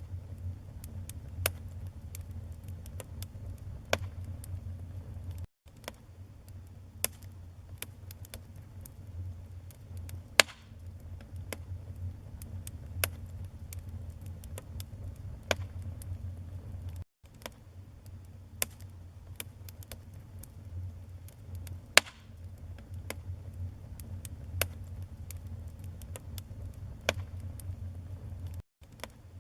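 Wood fire crackling: scattered sharp pops and snaps, a few of them much louder, over a steady low rumble of burning. The sound cuts out for an instant three times, about every eleven and a half seconds.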